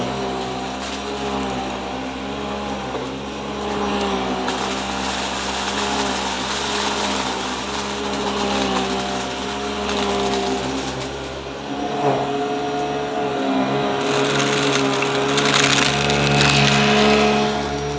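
Upright vacuum cleaner running steadily, its motor humming, with crackling as it sucks up crunchy debris. The low rumble drops away about halfway through, and the crackling hiss gets brighter and louder near the end.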